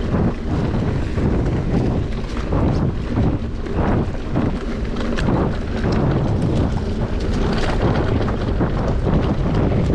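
Wind rushing over an action camera's microphone while an electric mountain bike is ridden along a trail, with frequent knocks and rattles from the bike over rough ground.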